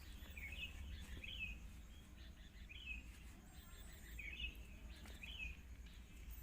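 A small bird calling faintly in short, curved chirps, repeated about once a second, over a steady low rumble.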